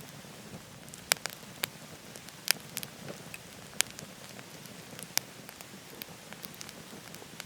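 Wood fire crackling in a wood-burning stove, with a handful of sharp pops scattered over a steady rushing hiss.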